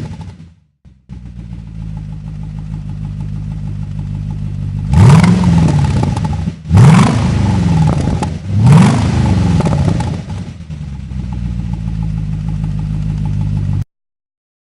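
Chevrolet Corvette C6's V8 idling through an AM Studio GT aftermarket exhaust, blipped three times in short revs about two seconds apart, then settling back to idle before the sound cuts off abruptly near the end.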